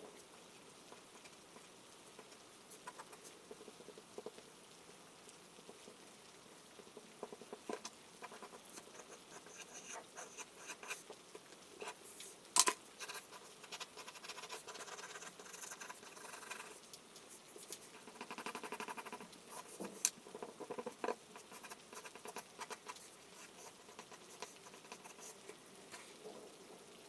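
Charcoal scratching across paper in short, uneven strokes with small taps, over a faint steady patter of rain. A sharp tap stands out about twelve seconds in, and another about twenty seconds in.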